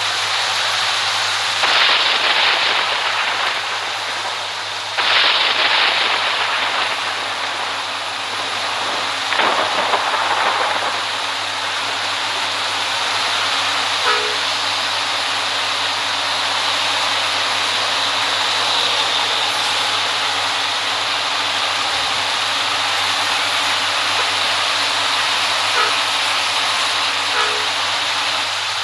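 Steady road-traffic noise with a loud hiss and a low hum, swelling louder briefly three times.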